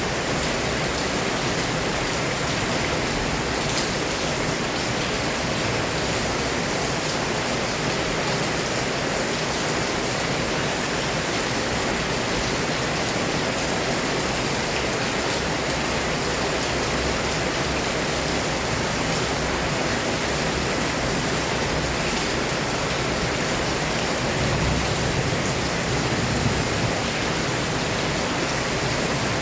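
Heavy rain pouring down steadily, a dense unbroken hiss of rain on surfaces, with a brief low swell about 25 seconds in.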